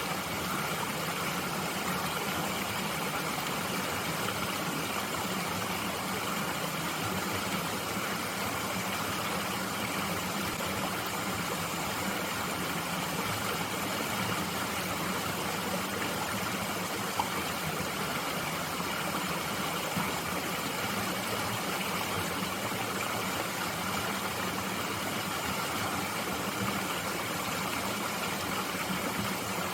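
Mountain stream flowing in a steady, even rush.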